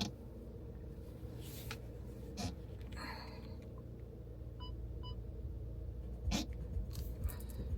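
Inside a parked car's cabin, a steady low rumble of the car idling, with a few light clicks and knocks. Two short, high electronic beeps about half a second apart come near the middle.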